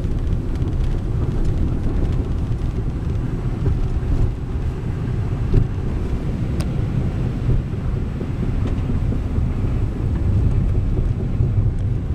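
Four-wheel-drive pickup truck driving over a bumpy road, a steady low rumble with a louder knock about five and a half seconds in.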